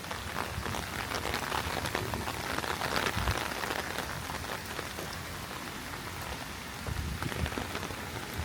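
Heavy rain falling, a dense steady patter of drops, with a few low thumps about three seconds in and again near the end.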